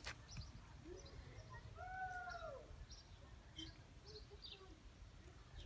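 One drawn-out animal call about two seconds in, rising then falling, over faint scattered high chirps.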